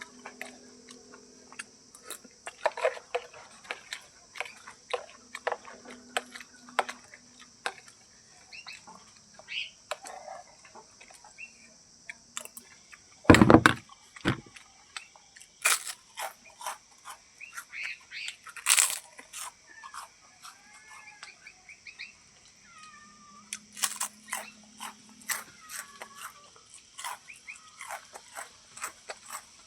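Irregular sharp taps and clicks, with one loud knock about 13 seconds in. In the second half a Javan myna gives a few short, curving whistled calls, over a steady high-pitched hiss.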